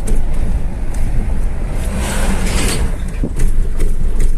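A car driving along a highway: steady low rumble of engine and road noise, with a brief louder rushing hiss about two seconds in.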